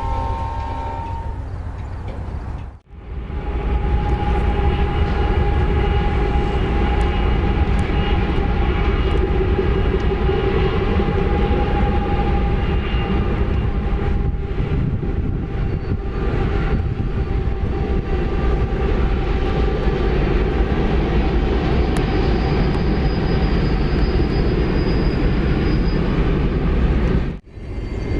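Freight train rolling past: a steady loud rumble of wheels on rail with a thin steady whine above it. The sound drops out abruptly about three seconds in and again near the end, where it cuts to another stretch of train.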